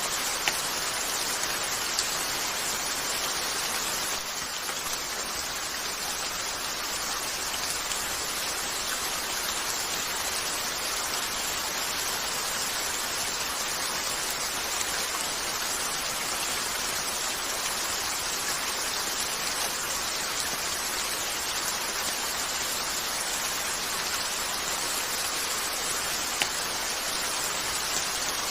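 Steady rain falling on a window, an even hiss of many drops, with a few brief sharp clicks standing out over it.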